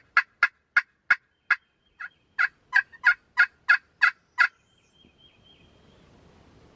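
Hunter's turkey call sounding two runs of yelps: about six evenly spaced notes, a short pause, then about nine more, calling to gobblers.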